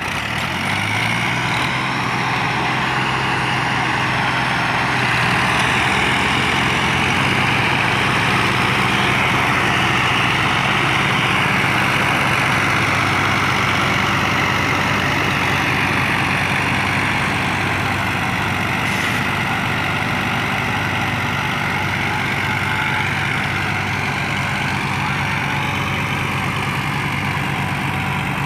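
Massey Ferguson 240 tractor's three-cylinder Perkins diesel engine running steadily, picking up in pitch and loudness in the first second and then holding an even, unchanging note.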